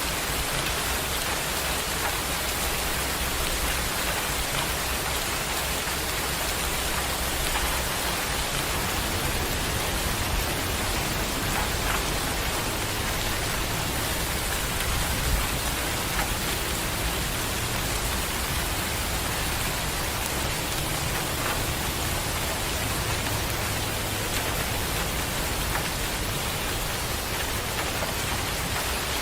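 Steady rain falling, an even hiss at a constant level, with a few single louder drops standing out.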